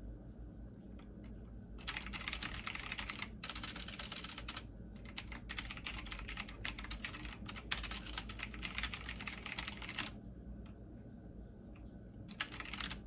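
Computer keyboard being typed on in fast runs of keystrokes, with a few short pauses, going quiet for a couple of seconds and then a brief final run near the end. A steady low hum sits underneath.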